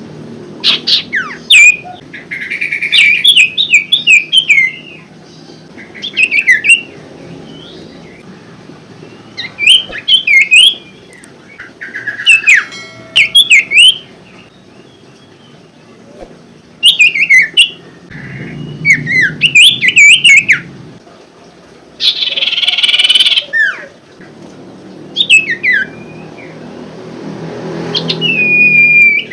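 Iora (sirtu / cipoh) song played as a lure: fast clusters of sharp, chirpy whistled notes that sweep up and down, repeated in phrases with short pauses between them, over a faint low hum.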